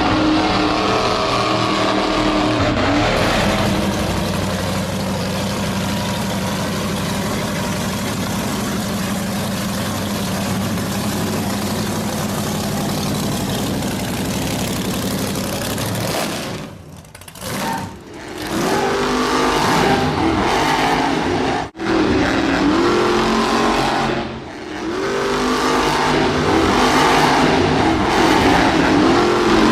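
Radio-controlled monster truck driving, its motor and gears whining up and down in pitch as the throttle is worked, with brief cut-outs in the sound about two-thirds of the way through.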